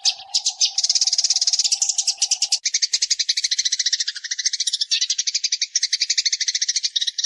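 Eurasian tree sparrow song played as a bird-tutoring track: a fast, dense chatter of rapid chirps, more than ten a second, without a break. A low steady hum sits under the first couple of seconds, and the chatter cuts off abruptly at the very end.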